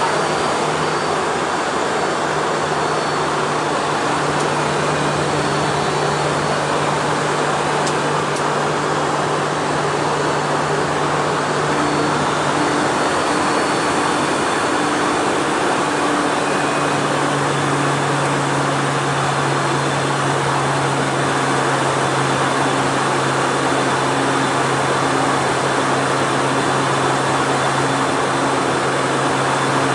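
Steady cabin noise inside a Hawker 800 business jet in flight: a constant rush of air with the low hum of its two rear-mounted TFE731 turbofan engines. The hum drops slightly in pitch a little past halfway.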